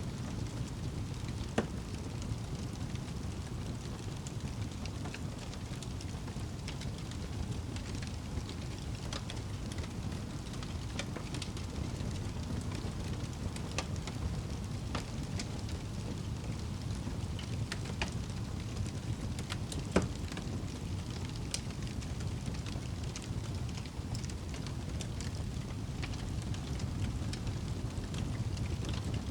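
Wood fire burning in a fireplace: a steady low rumble of the flames with scattered crackles and sharp pops, the loudest about two seconds in and again about twenty seconds in.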